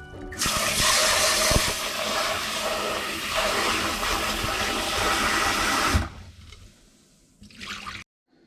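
Water running hard for about five seconds, then stopping about six seconds in.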